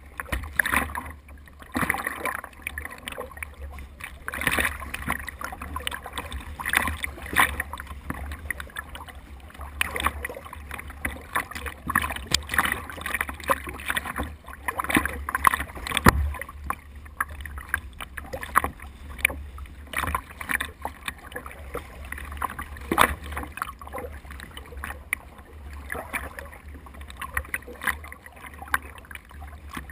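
Water splashing and sloshing around a small boat in irregular splashes, over a steady low rumble.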